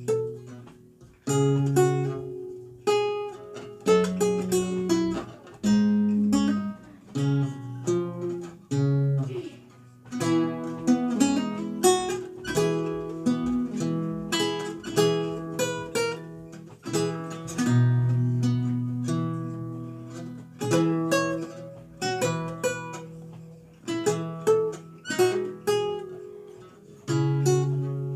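Renaissance lute played solo: a flowing line of plucked single notes and chords, each struck sharply and ringing away, with brief pauses between phrases.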